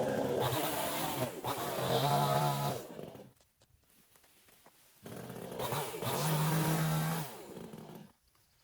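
Two-stroke chainsaw revving in two bursts of about three seconds each, its pitch sagging and rising under load, with a much quieter pause between them.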